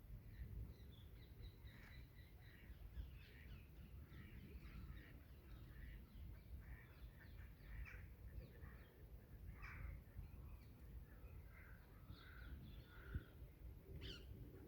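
Wild birds calling and singing, a busy, faint mix of short chirps and calls, over a low steady rumble.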